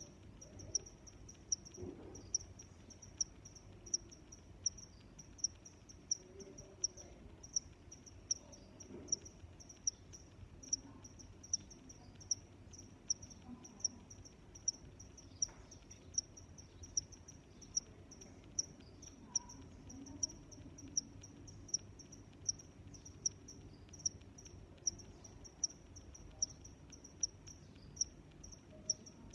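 A cricket chirping steadily: short, high-pitched chirps repeating evenly, a little over one a second, over a faint low background rumble.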